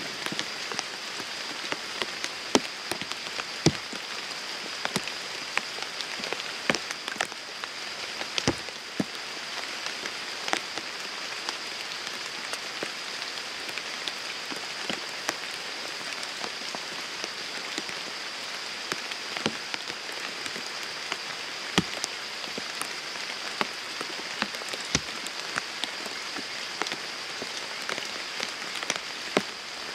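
Steady rain falling on a pond and the surrounding foliage, with many sharp, close drop hits scattered irregularly over the hiss. A steady high-pitched whine runs faintly underneath.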